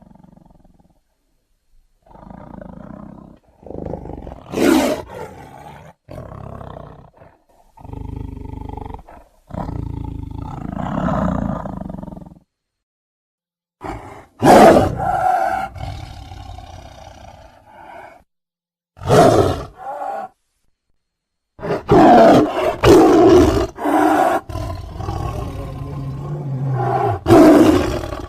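A series of lion roars, one after another with short pauses between them, used as the vocal sound effects for a cartoon lion character. Some calls start sharply and loud, others are lower and shorter.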